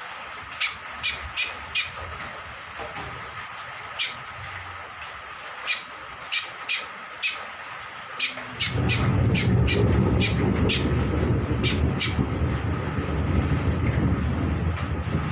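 Kecial kombok (scaly-crowned honeyeater) giving short, sharp calls in quick irregular runs of two to four. About nine seconds in, a loud low rushing noise starts and keeps going beneath the calls.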